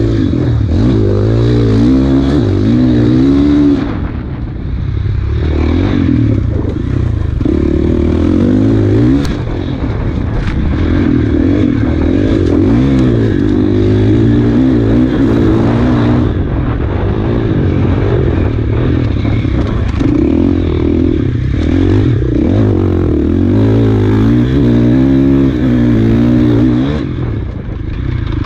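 Enduro motorcycle engine revving up and down during hard off-road riding, its pitch climbing and falling again and again, with brief throttle-offs about four seconds in, around nine to ten seconds, and near the end.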